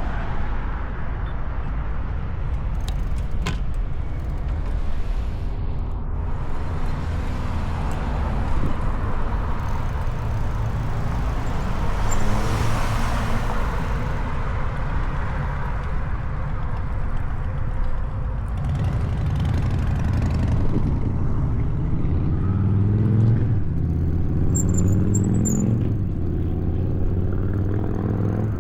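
Street traffic heard from a moving bicycle: a steady low rumble throughout, a vehicle passing about twelve seconds in, and engines rising in pitch as vehicles accelerate in the last third.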